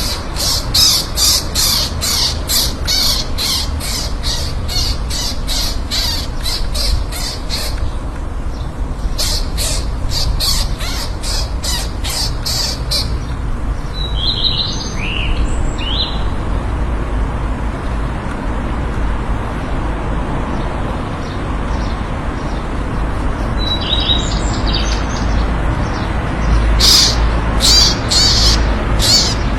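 A bird calling in fast runs of short, repeated notes, about three a second, with a pause midway and a few more calls near the end, over a steady low rumble.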